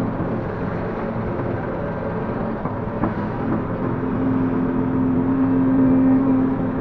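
Link-Belt 145X3E hydraulic excavator running steadily, a diesel engine hum with a tone that grows louder about halfway through and eases off near the end.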